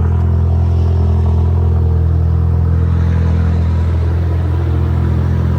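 Ford Focus RS engine running at a steady, raised cold-start idle, a loud even drone that has not yet idled down.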